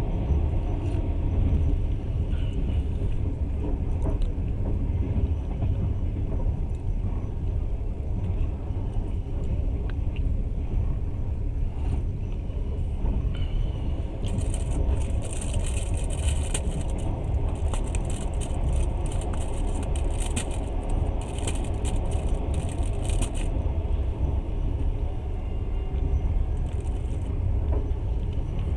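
Passenger train running along the line, heard from inside the carriage: a steady low rumble of the wheels on the rails, with a spell of high, crackly rattling from about halfway to near the end.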